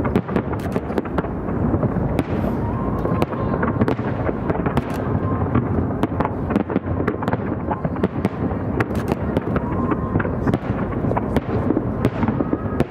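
Fireworks display, a continuous barrage of overlapping bangs and crackling with many sharp reports in quick succession.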